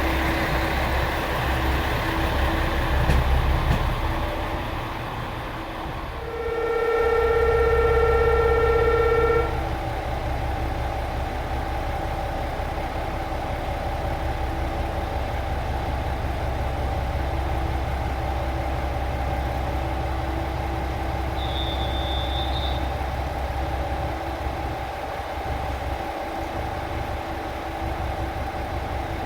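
A train horn sounds once, a single held blast of about three seconds starting some six seconds in. A steady low engine rumble from the train follows it, easing off near the end, and a short high beep sounds once partway through.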